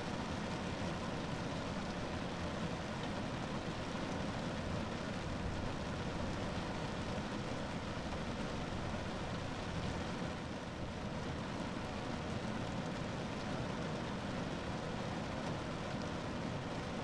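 Rain falling steadily on a car roof, a dense, even patter.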